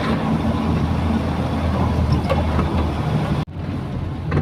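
Truck engine running steadily under road and water noise. The sound drops out sharply for an instant about three and a half seconds in, then carries on.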